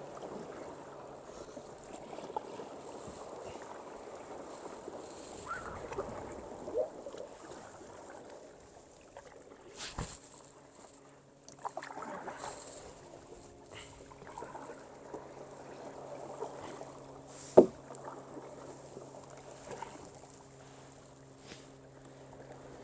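Kayak paddling: paddle strokes dipping and splashing in calm water, with a few sharp knocks, the loudest about three-quarters of the way through. A faint steady hum comes in about a third of the way in.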